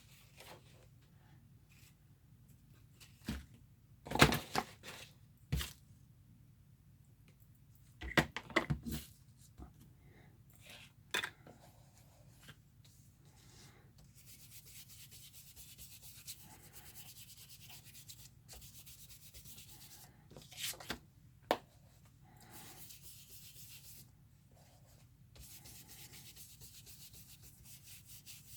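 Paper being handled at a work table: stretches of rubbing and scuffing, with scattered sharp clicks and taps.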